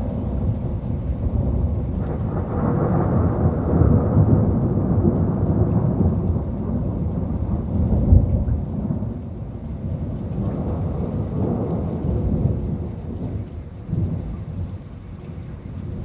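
Long rolling thunder, a deep rumble that swells and fades several times, loudest a little past the middle.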